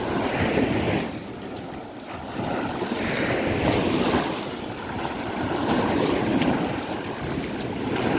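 Sea waves breaking and washing on the beach in surges every couple of seconds, with wind buffeting the microphone.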